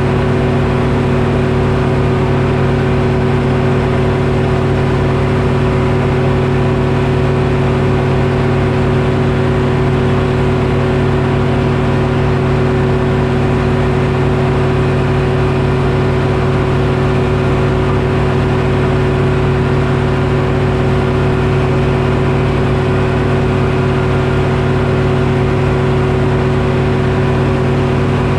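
Detroit Diesel engine powering a Frick sawmill, running steadily at constant speed with no change in pitch or loudness.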